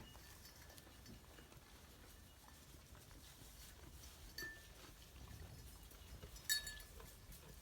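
A small bell on a sheep clinks twice, briefly ringing, about halfway through and more loudly near the end, over faint rustling of the animals.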